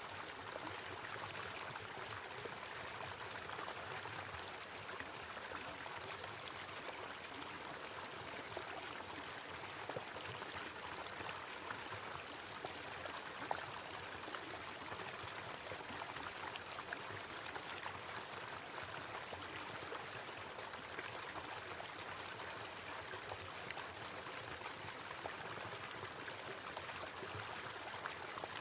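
Small waterfall splashing and trickling steadily, an even rush of falling water with small droplet ticks.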